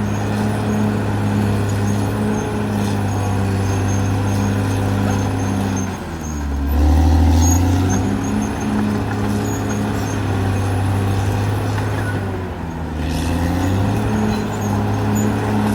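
Caterpillar D6R XL bulldozer's diesel engine running steadily. About six seconds in its pitch sags and the note turns deeper and louder for a couple of seconds before picking back up. It sags and recovers once more about thirteen seconds in.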